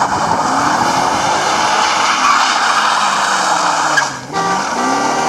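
A loud car engine running and revving, its pitch sweeping down and back up about four seconds in.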